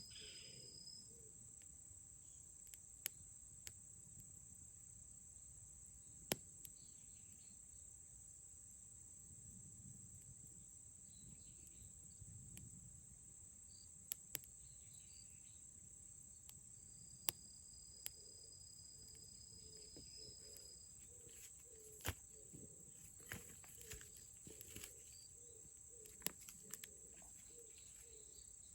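Quiet campfire with sporadic sharp crackles and pops at irregular intervals, over a steady faint high-pitched hiss.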